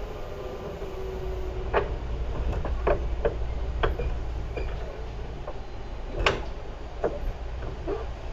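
Tobu 10030-series electric commuter train running, heard from inside the car: a steady low rumble of wheels on rail, with sharp irregular clacks as the wheels pass over the track, the loudest about six seconds in. A faint whine falls in pitch and fades over the first second and a half.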